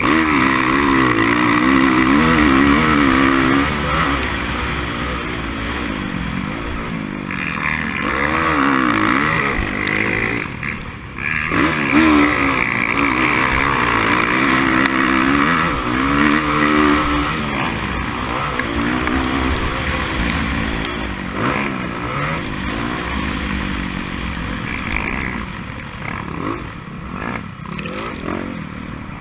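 Dirt bike engine being ridden hard in a race, its pitch rising and falling over and over as the rider works the throttle and gears, with a brief drop in level about ten seconds in.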